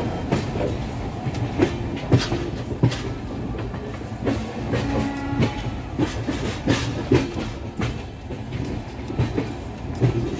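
Passenger train running through a station yard, heard from inside the coach: a steady rumble with irregular clacks and knocks of the wheels passing over rail joints.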